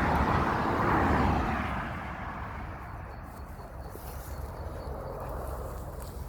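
A passing road vehicle: a rushing noise that swells and then fades over the first two seconds, leaving a steady low rumble.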